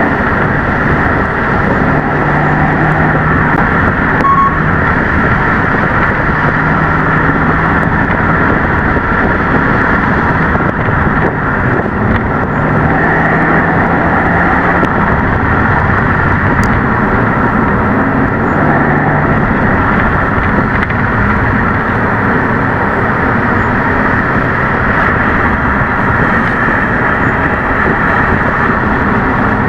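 Subaru WRX S4 driven hard on a winding road: the turbocharged flat-four engine's intake and exhaust sound together with the CVT, running loud and continuous, with a low engine tone that swells and fades several times as the load changes.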